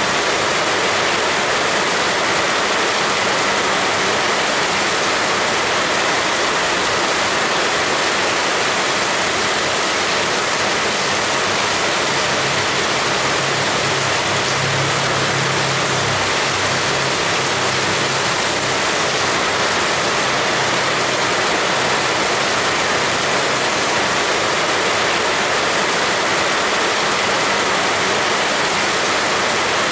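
Heavy rain pouring down steadily, a dense, even hiss. A faint low hum rises under it from about twelve to twenty-one seconds in.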